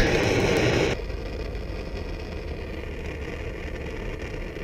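A sharp click, then about a second of loud hiss, then the steady low hum of an idling vehicle engine.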